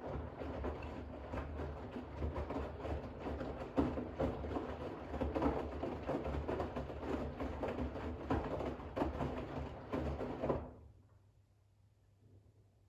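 Bosch WAX32GH1 front-loading washing machine drum turning during a rinse, with wet towels tumbling and water sloshing over a low motor hum; the drum stops after about eleven seconds and pauses.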